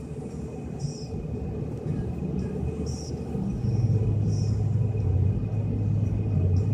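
Car driving in snow, heard from inside: a steady low rumble of engine and tyres that grows louder about halfway through, with a short soft hiss every second or two.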